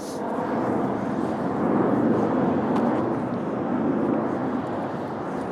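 Steady rushing noise of a passing vehicle, swelling about two seconds in and easing off toward the end.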